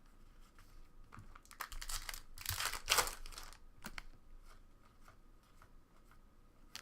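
A trading-card pack wrapper crinkling and tearing open in a stretch of crackling that peaks about three seconds in, with light clicks of cards being handled around it.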